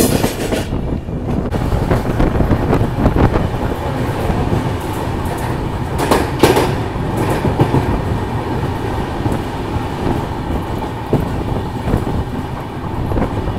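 Mumbai–Ahmedabad Double Decker AC Express running on the track, heard from the open coach doorway as it leaves a station: steady rail noise with wheels clattering over rail joints, and a louder burst of clatter about six seconds in.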